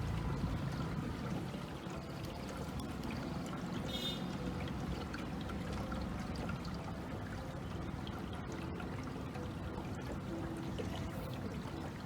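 Steady water sounds, a running, trickling wash of moat water around a small tour boat as it moves along.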